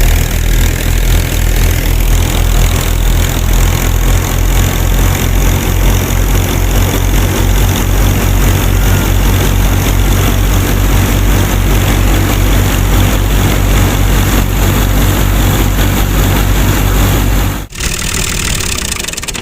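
An engine running steadily with a low, pulsing beat, cutting off suddenly near the end.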